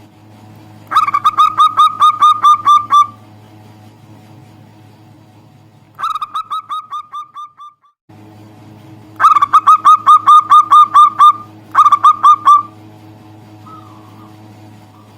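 Zebra dove (perkutut) singing: four bouts of rapid, clipped cooing notes at about six notes a second. The second bout trails off, its notes fading and spacing out, and a low steady hum runs beneath.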